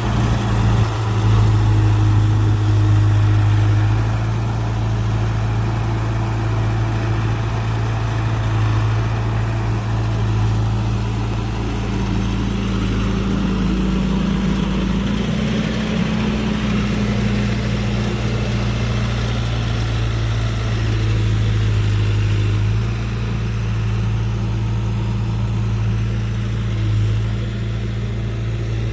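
Farm diesel engine running steadily, its pitch rising a little about halfway through.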